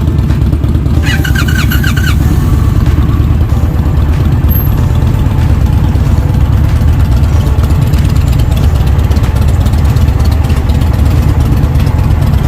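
Motorcycle engine running steadily under way. About a second in, a brief pulsed beeping tone sounds over it.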